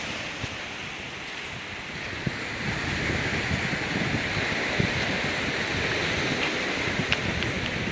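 Ocean waves washing on a rocky beach, with wind buffeting the microphone. The surf dips and then swells up again about two and a half seconds in.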